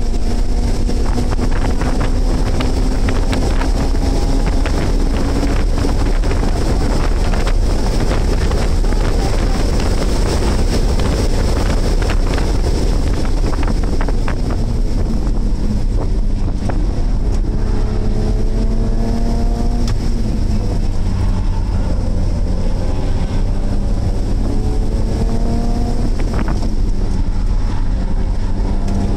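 BMW race car's engine at full track speed, heard inside the cabin. Its pitch climbs and drops with acceleration and gear changes, with several quick rising revs in the second half, over loud, constant wind and road noise.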